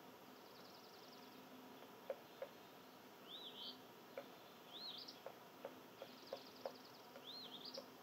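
A songbird calling outdoors: a short phrase, an arching whistle followed by quick rising notes, given three times about every second and a half, with faint high trills around it. Irregular sharp clicks or taps are scattered throughout and stand out as the loudest sounds.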